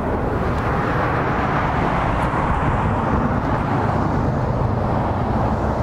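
Steady motor-vehicle engine noise: a low, even hum under a constant rushing noise.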